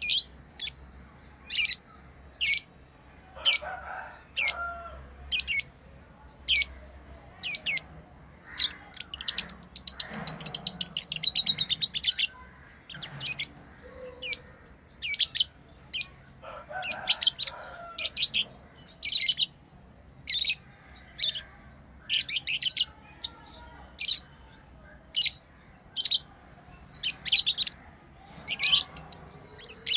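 Pet lovebirds chirping: short, sharp, high chirps about once a second, with a burst of rapid chattering about nine seconds in that lasts some three seconds.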